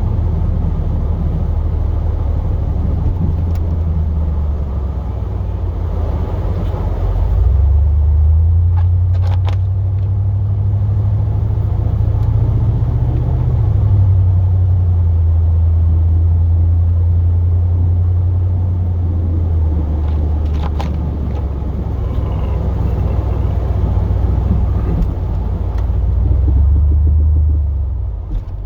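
Plow truck's engine running under changing load. Its pitch steps up about eight seconds in, climbs slowly for several seconds, then drops back, with smaller rises and falls later on.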